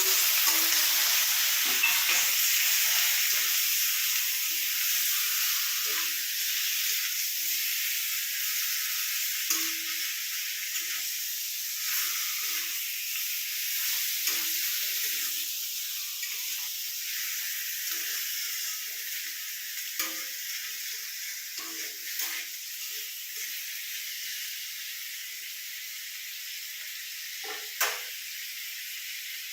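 Raw chicken pieces sizzling in hot mustard oil just after going into the pan, the sizzle loud at first and slowly dying down. A few light knocks are heard along the way, the sharpest near the end.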